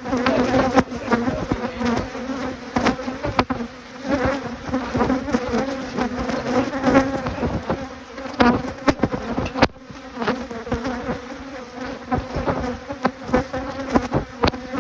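Honey bees from an opened hive buzzing in a steady drone, with scattered sharp clicks and knocks.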